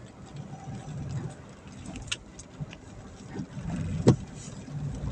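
Car running with a steady low rumble, with a few light clicks and one sharp knock about four seconds in.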